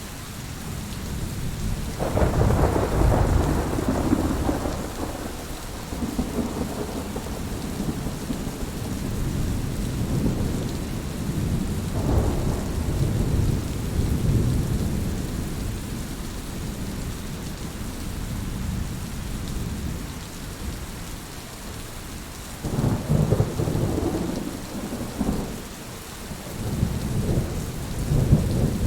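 Heavy rain falling steadily, with rolling thunder rumbling four times: a long low roll a couple of seconds in, another midway, and two more near the end.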